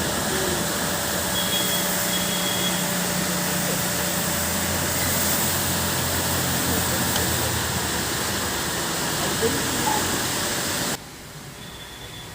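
Touchless car wash running: a loud, steady hiss of high-pressure water spray over a low hum, which cuts off suddenly about eleven seconds in.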